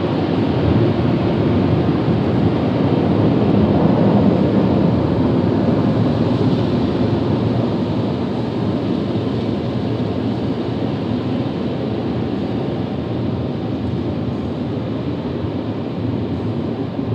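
Automatic car wash air dryer blowers running, a loud steady rush of air heard from inside the truck's cab, easing slightly toward the end.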